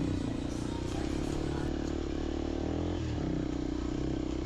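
Motorcycle engine running steadily on a downhill trail ride, its note shifting briefly about three seconds in.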